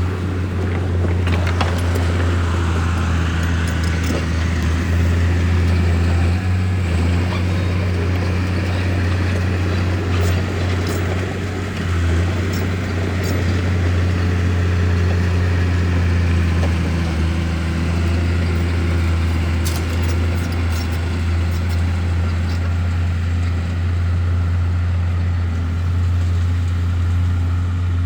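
Bulldozer's diesel engine running steadily with a deep, even drone, with a few light clicks and clanks scattered through it.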